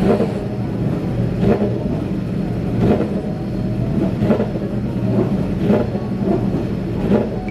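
Engines running with a steady low drone at a constant pitch, and a brief swell about every second and a half.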